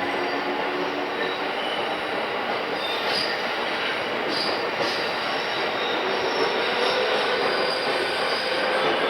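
Onboard running sound of a pre-renewal JR East E217 series commuter EMU, heard inside the motor car MoHa E217-2006: a steady rumble of wheels on rail with a few faint high-pitched tones above it.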